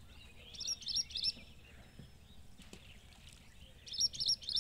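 Small birds chirping in two quick bursts of high notes, one about half a second in and another near the end, over a faint low background rumble.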